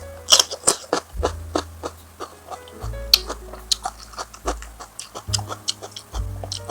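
Close-miked eating: a person chewing and crunching food, with many sharp crunches at an uneven pace. Background music with a steady bass line plays underneath.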